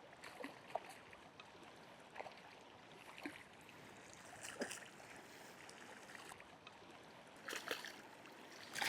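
Fast river water running steadily, with a few brief sharp sounds scattered through it and a small cluster near the end.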